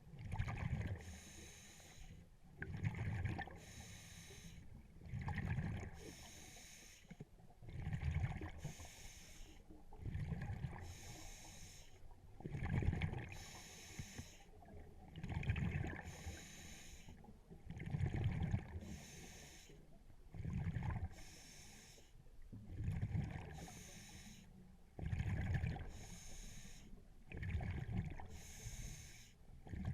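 Scuba diver breathing through a regulator underwater: a hiss on each inhale alternates with a low gurgle of exhaled bubbles, about one breath every two and a half seconds.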